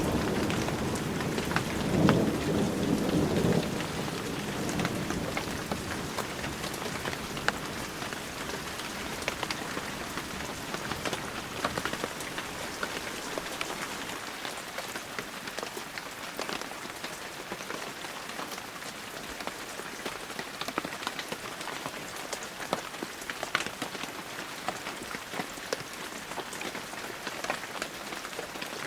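Heavy rain falling steadily, with many separate drops ticking through the hiss. A low rumble of thunder sounds in the first few seconds, peaking about two seconds in, then fades away.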